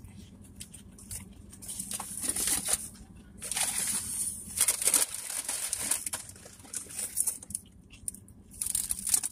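Close-up chewing of a bite of crispy fried chicken sandwich, crunching and crinkling in irregular spurts.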